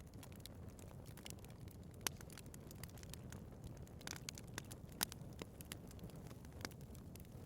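Wood fire burning in a fireplace: a low, steady rumble of the flames with frequent sharp crackles and pops from the burning wood, the loudest about two and five seconds in.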